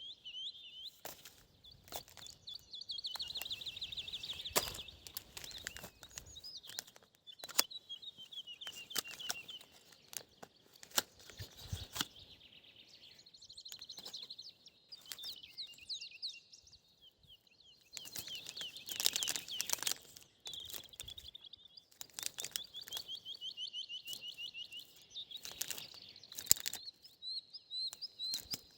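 Songbirds singing repeated high, rapid trills, each a second or two long, with short pauses between. Scattered sharp clicks and crackles sound throughout.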